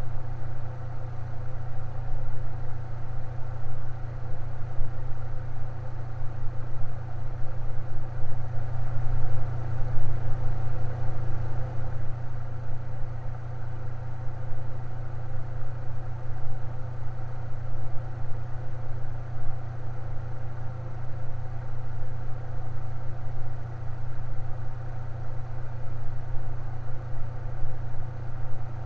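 Electric fan running steadily: a strong low motor hum with a few faint steady higher tones over a soft rush of air.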